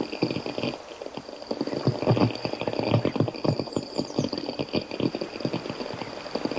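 Crab sound effect: rapid, irregular clicking and bubbling crackle, with a faint steady high tone behind it.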